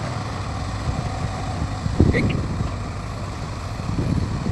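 Heavy diesel engine of an excavator or dump truck running steadily at a work site, with a brief louder knock about two seconds in.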